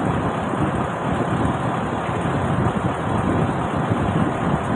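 A truck engine running steadily, a constant even noise with no clear changes.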